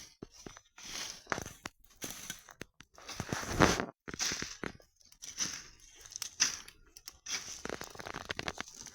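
Irregular crackling and crunching of dry twigs and brush at a campfire, in uneven bursts with short pauses, the loudest about three and a half seconds in.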